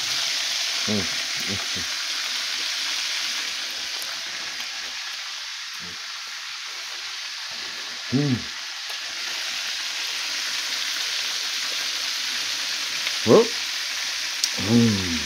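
Chicken drumsticks frying in a stovetop pan of hot oil: a steady sizzle. A man's short vocal sounds break in briefly a few times, loudest around eight and thirteen seconds in.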